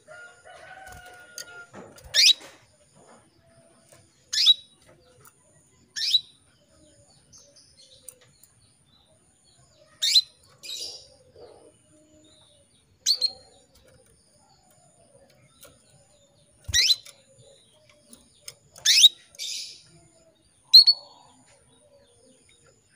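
Female canary in breeding condition calling to a male: short, sharp call notes every two seconds or so, each a quick downward sweep, a few followed at once by a brief rougher note.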